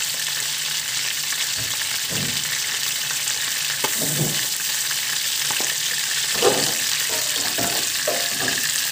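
Fresh sausages sizzling in hot oil in a nonstick pan: a steady, high frying hiss, with a few brief knocks, the clearest about six and a half seconds in.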